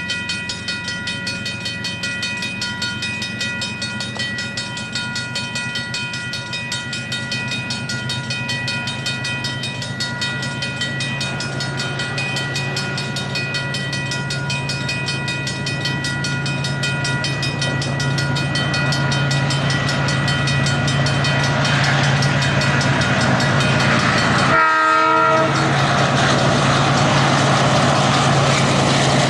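Diesel locomotive running, with a steady high whine over a rapid pulsing beat, growing louder as it nears. Near the end there is a short, sharp break with a brief horn-like toot.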